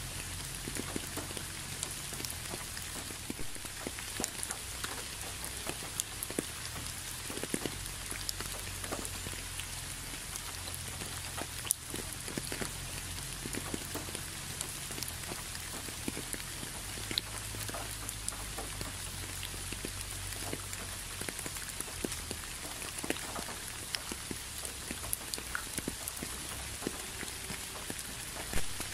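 Steady rain: an even hiss with many separate drops ticking and pattering on wet leaves and asphalt, over a low steady rumble.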